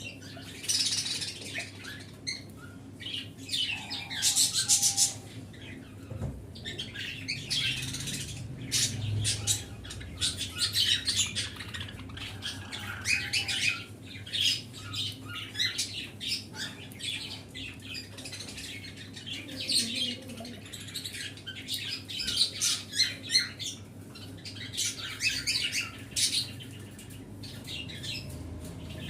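A flock of small pet birds, such as budgies, lovebirds and finches, chirping and chattering continuously in rapid overlapping high calls, with louder flurries now and then, over a faint steady low hum.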